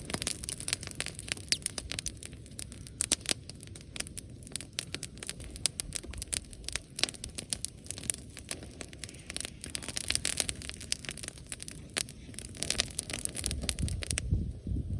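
Bonfire crackling with dense, irregular pops and snaps. About a second before the end the crackling stops and a low rumble comes in.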